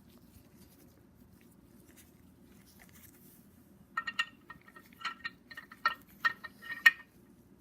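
A steel bolt and socket clinking together as the bolt is fitted into the socket: a quick run of about a dozen sharp, ringing metallic clinks over a few seconds, starting about halfway through after a nearly quiet stretch.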